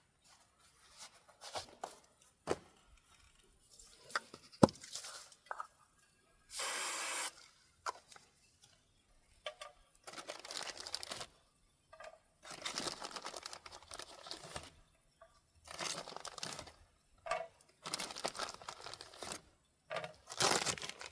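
Repeated short bursts of tearing and crinkling from something handled by hand, with a few sharp clicks in the first few seconds.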